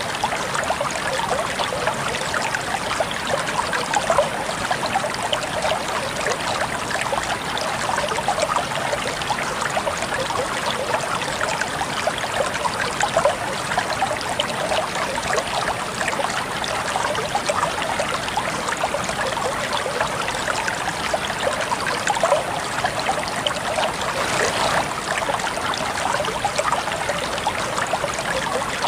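Clear shallow stream trickling and babbling over rocks, a steady splashing with many small gurgles.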